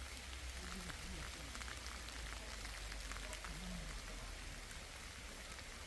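Steady rain falling in a forest, with many individual drops ticking close by.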